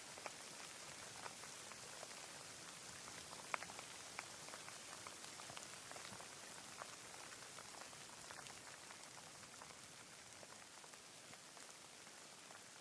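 Light rain falling: a steady soft hiss with scattered individual drops ticking, one louder drop about three and a half seconds in.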